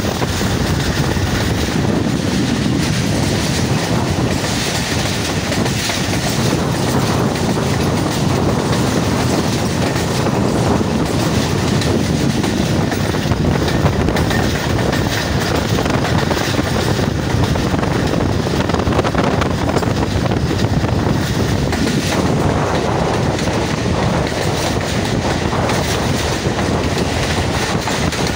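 Pakistan Railway Rehman Baba Express passenger coaches running at speed, heard from aboard the moving train: a steady, loud rumble and clatter of steel wheels on the rails.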